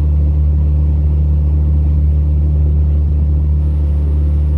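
Tohatsu 20 hp EFI four-stroke outboard motor running steadily under way, a constant low drone with no change in speed.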